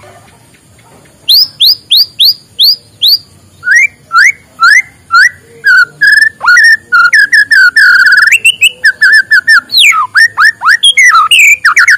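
White-rumped shama singing: after a brief pause, a run of about six quick repeated whistled notes, then a varied stream of lower whistles and rapid trilled phrases.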